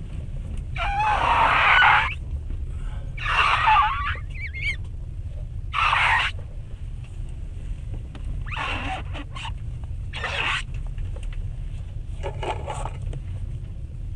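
Steady low rumble of a passenger train running, heard from inside the carriage, with six short, louder, higher-pitched sounds over it; the loudest come about a second in and about four seconds in.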